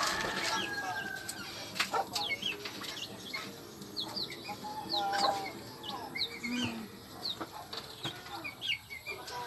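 Birds chirping in short, high, downward-sliding chirps, scattered through, with a few sharp knocks.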